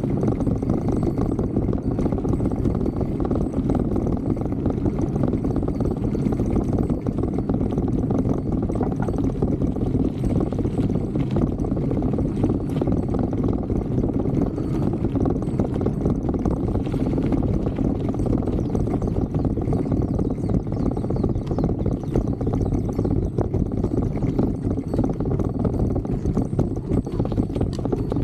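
Bicycle descending a rough downhill track: a steady rumble of the tyres on the surface with rapid, continuous rattling and knocking of the bike over bumps.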